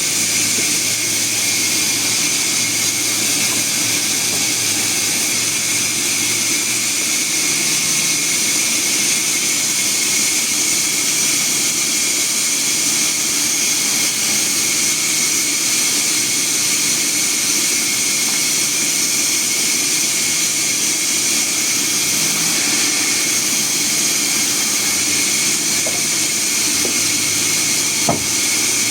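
Sawmill saw running steadily: a loud, even, high-pitched sawing noise with a machine hum beneath. A single sharp knock comes near the end.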